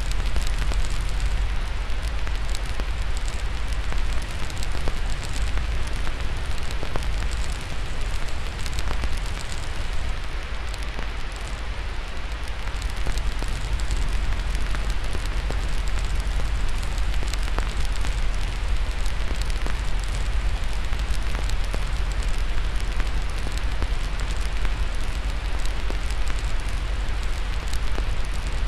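Crackling fire, with frequent small pops and snaps, laid over a steady white-noise hiss and a low rumble underneath.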